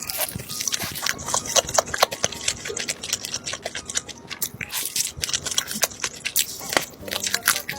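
Close-up crunchy biting and chewing of yangnyeom (sauced Korean) fried chicken: a rapid, irregular run of crisp crackles.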